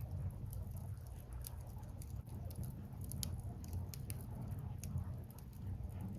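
Wood fire burning, with frequent sharp crackles and pops from the burning logs over a low steady rumble.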